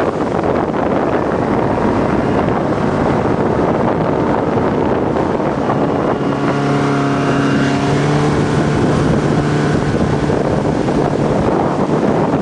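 Motorboat engine running at speed, towing the banana boat, with heavy wind noise on the microphone. The engine's steady hum stands out more clearly about halfway through, then sinks back into the wind.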